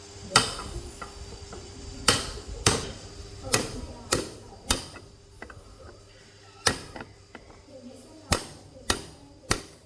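Hammer blows on metal, about ten sharp strikes at uneven intervals, each ringing briefly: knocking at the main-stand pivot shaft of a Wave S motorcycle.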